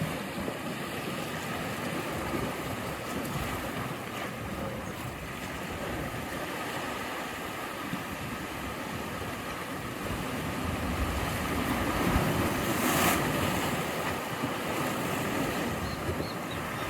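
Ocean surf: a steady wash of waves, with one wave surging louder about two-thirds of the way through.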